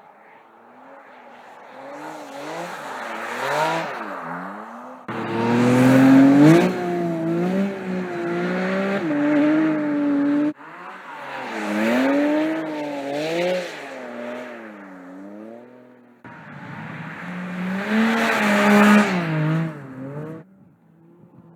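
Porsche 718 Cayman GT4 RS's 4.0-litre flat-six engine and exhaust, revving up and down as the car accelerates and lifts, its pitch repeatedly rising and falling. Several separate passages, each cut off abruptly, with the loudest stretches about 6 s and 19 s in.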